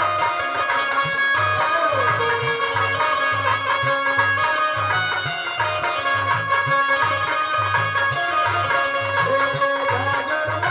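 Indian devotional folk music (nirgun) with a regular low drum beat under sustained melodic tones.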